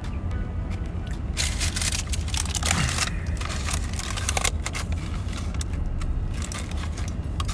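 Paper sandwich wrapping and food tray crinkling and rustling in irregular bursts as the sandwich is handled, over a steady low rumble in the car's cabin. The rustling is busiest a second or so in and again past the middle.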